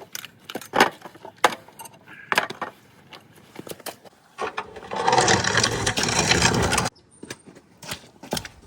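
Light metal clinks and knocks as a clamp is fitted to a truck's exhaust tailpipe. About four and a half seconds in comes a loud, dense mechanical noise lasting about two and a half seconds, which cuts off suddenly.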